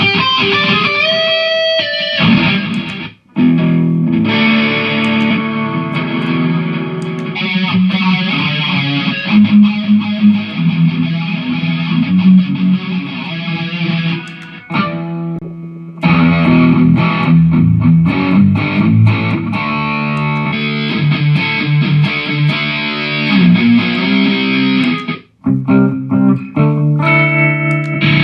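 Electric guitar played through a Mooer GE150 multi-effects unit, with distorted riffs and picked single notes. The playing stops briefly three times.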